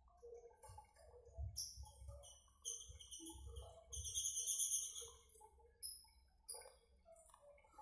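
A small bird chirping in short, high-pitched runs, loudest through the middle, over faint room background sounds.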